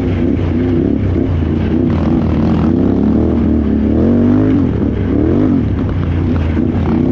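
Can-Am Renegade XXC 1000R ATV's V-twin engine running under way, its pitch repeatedly rising and falling as the throttle is worked on and off.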